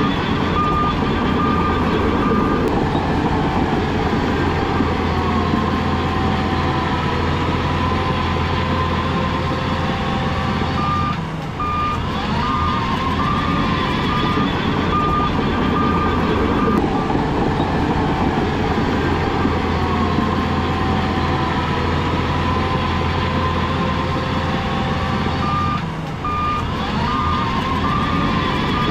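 Heavy diesel earthmoving machine, most likely the Shantui bulldozer, running steadily under load. A reverse alarm beeps in a regular chain three times: at the start, for a few seconds in the middle, and again near the end. Each beeping stretch follows a brief dip in the engine sound as the machine shifts into reverse.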